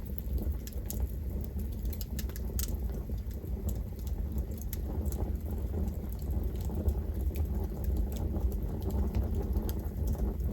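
Campfire burning: wood crackling and popping in quick irregular snaps over a steady low rumble of the flames.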